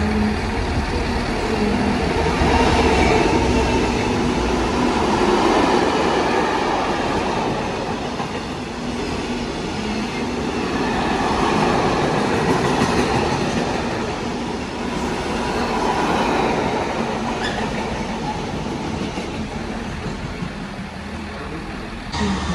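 A train passing through, its wheels rolling on the rails in a continuous noise that swells and eases several times.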